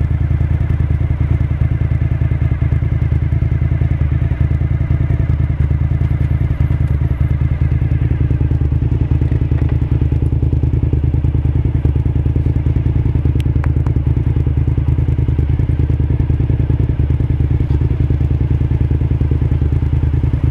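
Suzuki SV1000S 90-degree V-twin engine idling steadily with an even, rapid pulse.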